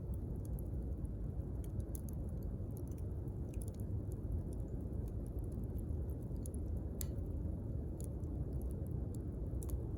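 Wood bonfire burning: a low steady rumble with scattered sharp crackles and pops, a louder pop about seven seconds in.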